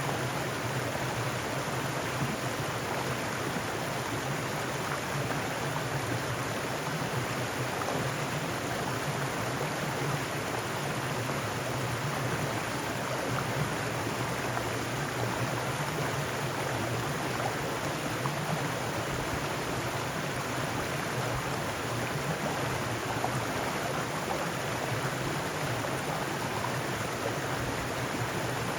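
Mountain stream running over rocks, a steady rushing of water.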